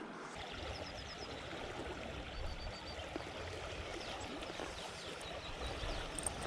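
Small river running high after floods: a steady rush of flowing water. A few short, faint high bird chirps sound over it about a second in, in the middle and again later.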